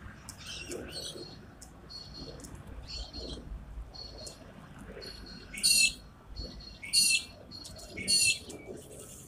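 Birds chirping, with softer chirps at first and then three loud, sharp calls about a second apart in the second half.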